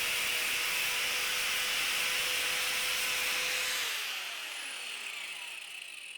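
An electric power tool running steadily on wood with a high hiss and a steady hum. About four seconds in it is switched off and its motor winds down, the pitch falling as it slows.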